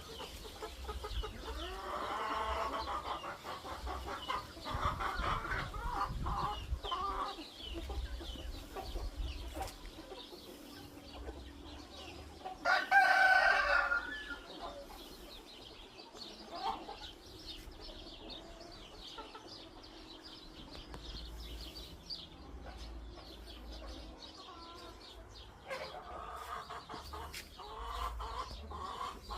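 Farmyard chickens: a rooster crowing loudly once about halfway through, with hens clucking in the first few seconds and again near the end. Small birds chirp throughout over a low rumble.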